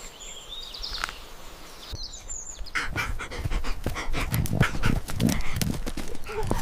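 Golden retriever panting quickly, in a rapid run of short breaths that starts about three seconds in.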